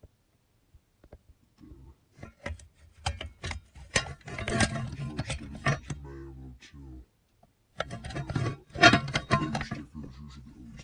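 Handling noise close to the microphone: scattered clicks and knocks, with two spells of rubbing and knocking, as the ceiling fan's canopy is handled to show its date label. A short low hum is heard about six seconds in.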